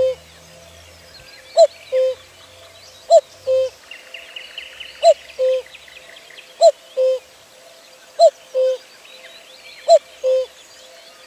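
A bird repeating a two-note call about every second and a half: a short higher note followed by a longer, lower one. Fainter, higher chirps from other small birds come and go behind it.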